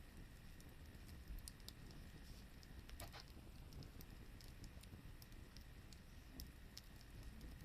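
Burning firewood crackling faintly, with scattered small ticks and pops and one louder pop about three seconds in.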